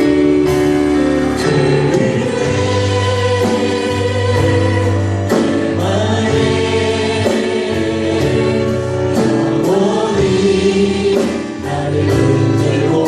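Choir singing a gospel praise song with a full band: a steady bass line and regular cymbal strokes.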